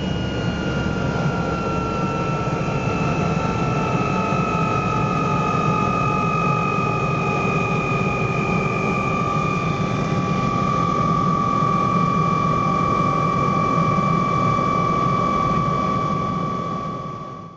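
MBB Bo 105 helicopter's twin turboshaft engines and rotor running, a steady loud rush under a turbine whine that falls slowly in pitch. The sound cuts off suddenly at the end.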